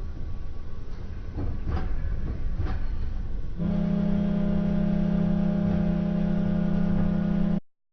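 A low rumble with a few sharp knocks, then about three and a half seconds in a loud, steady, low pitched tone with many overtones that holds for about four seconds and cuts off abruptly.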